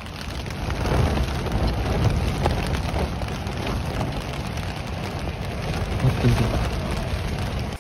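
Heavy rain pattering on a dome tent, heard from inside, with a low rumble of wind under the patter. It cuts off suddenly at the end.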